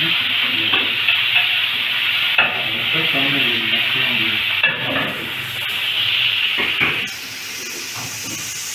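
Meat sizzling loudly in a ribbed cast-iron grill pan over a gas burner, with a few clicks of metal tongs against the pan as the pieces are turned. The sizzle cuts off about seven seconds in, leaving a fainter, higher hiss.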